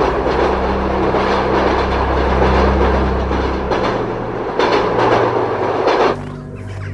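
Loud, steady rushing noise of a passing train over low background music, cutting off abruptly near the end.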